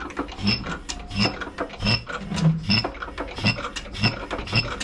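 Antique Bernard Moteurs single-cylinder diesel generator being turned over by its hand crank with the decompression released: a rhythmic click and rub with each turn of the flywheel, about two to three a second and quickening as the flywheel is spun up before compression is dropped to start it.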